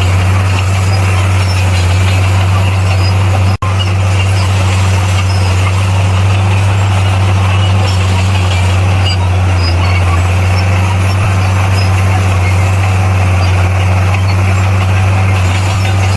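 Bulldozer's diesel engine running with a steady, deep drone; the sound cuts out for an instant about three and a half seconds in.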